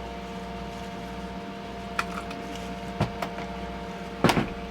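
A steady mechanical hum from the boat's running machinery, with a few sharp clicks and knocks and a louder clatter about four seconds in.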